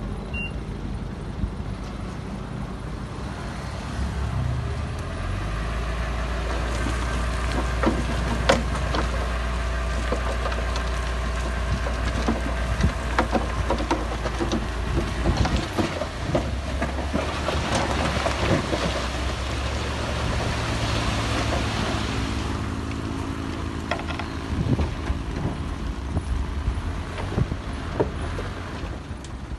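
Heavy diesel earthmoving machinery running under changing load, its low drone stepping up about four seconds in and shifting again partway through, with scattered sharp knocks throughout.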